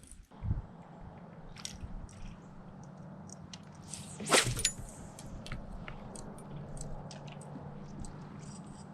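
Scattered clicks and light knocks close to the microphone, with one louder knock about four seconds in, over a steady low hum.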